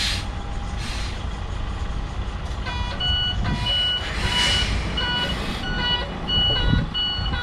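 Container truck's diesel engine running low with short hisses of air from its brakes; from about three seconds in, the reversing alarm beeps repeatedly, roughly one beep every 0.7 seconds, as the truck backs up.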